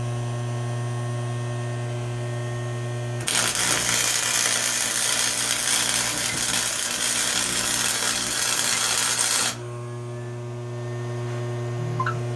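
Steady electrical hum; about three seconds in, a welding arc strikes and crackles with a loud hiss for about six seconds, then cuts off and the hum carries on.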